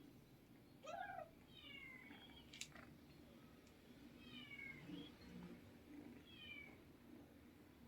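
Kittens mewing: repeated short, high mews, each falling in pitch, with a lower call about a second in. A sharp click comes about two and a half seconds in.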